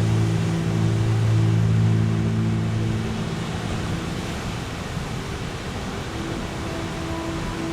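Steady wash of Caribbean ocean surf under a sustained meditation drone. The low held chord fades out about three seconds in, and a higher held tone comes in near the end.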